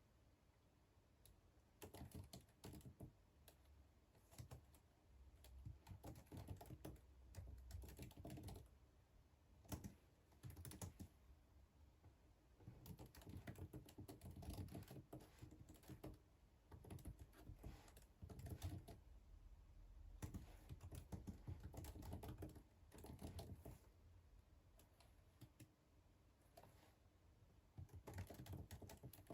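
Faint typing on a computer keyboard: clusters of quick key clicks in bursts of a second or two, with short pauses between.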